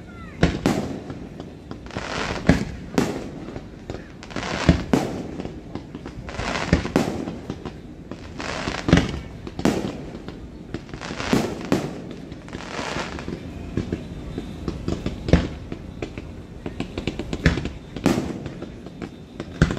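Aerial fireworks shells bursting in quick succession: over a dozen sharp bangs at irregular intervals, some trailed by a longer crackling rush.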